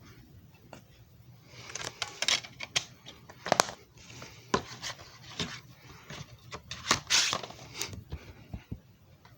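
Handling noise: a run of irregular clicks, knocks and short rubbing scrapes, starting about a second and a half in and dying away near the end.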